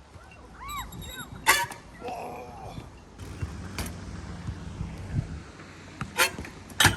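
BMX bike being ridden on skate park ramps: a steady low rumble of rolling, broken by several sharp knocks, loudest about one and a half seconds in and just before the end, with a couple of brief squeaks early on.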